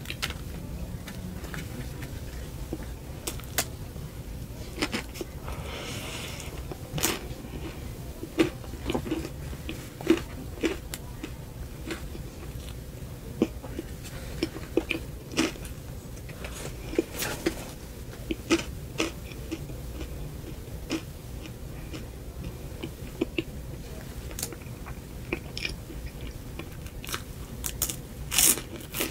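Close-miked mouth sounds of a person eating a cupcake: biting and chewing, with many short sharp clicks scattered throughout and a louder cluster near the end.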